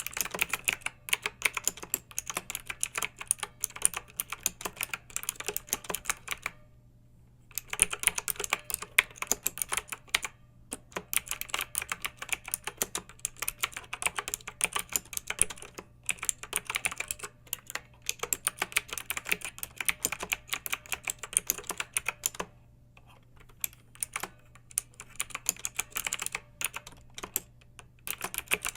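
Clicky mechanical keyboard typing: fast, dense runs of keystrokes broken by a few pauses of about a second.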